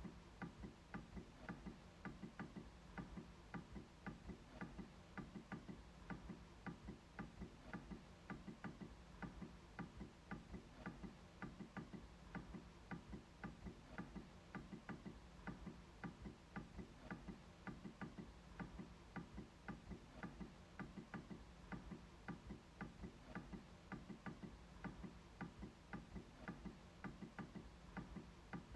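MacBook trackpad being clicked over and over, quiet, at a steady pace of about three clicks a second.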